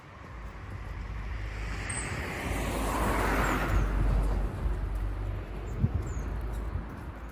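A car driving past on the street: engine and tyre noise swell up to a peak about halfway through, then fade away.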